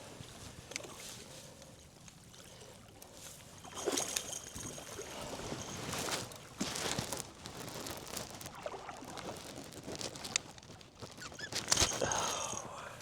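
Scattered knocks, clicks and handling noises aboard a fishing boat over a steady noisy background, the loudest clusters about 4, 6 and 12 seconds in.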